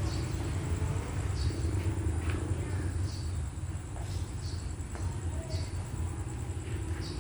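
Outdoor night ambience: a steady high trill with short chirps repeating every second or so, over a steady low rumble.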